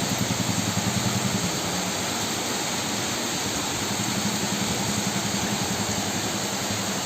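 Heavy rain pouring down in a steady, dense hiss. A low throbbing hum sits under it for the first second or so and comes back about halfway through.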